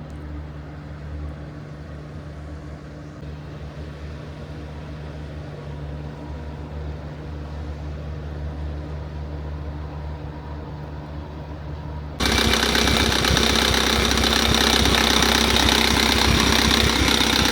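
Large ship engines droning steadily at a low, even pitch. About twelve seconds in, a much louder, harsher rushing noise starts abruptly.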